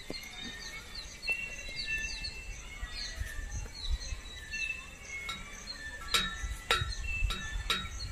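Birds chirping in the surrounding trees: many short, quick chirps at first, then a run of short, sharp calls in the second half.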